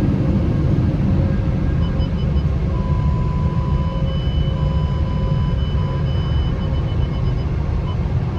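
Automatic car wash machinery running: a steady low rumble, with faint high whining tones that come and go.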